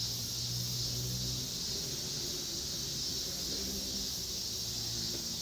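Steady high-pitched chorus of insects chirring without a break, with a faint low hum underneath.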